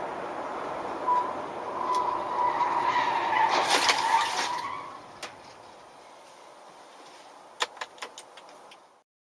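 Car on the road heard through a dashcam: steady road noise, then a long, steady high tone that lasts about three and a half seconds with a louder rush of noise in its middle. A few sharp clicks follow near the end before the sound cuts off.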